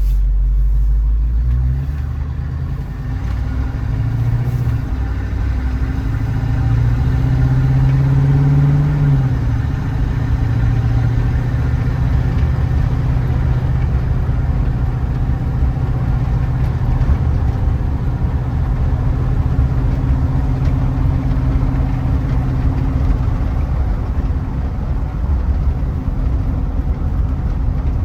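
Willys wagon's carbureted engine running shortly after a cold start on its automatic choke, with a steady hum; about eight seconds in the pitch climbs briefly, then drops back and settles.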